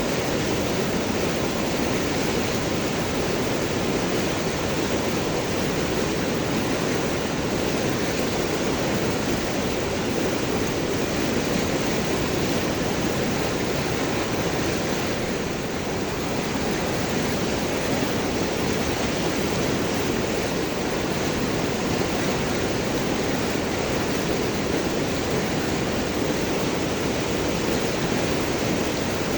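River water rushing and gurgling over and around large rocks, a steady, even rush.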